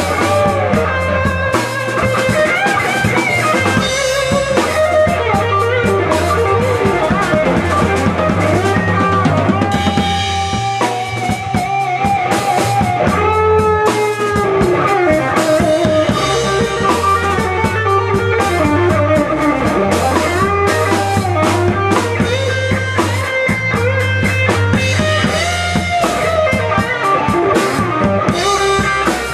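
Blues-rock band playing an instrumental break: a guitar lead with bending, sliding notes over a drum kit and a steady bass line.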